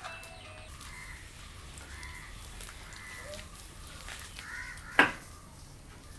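Crows cawing, with one short, loud sound about five seconds in.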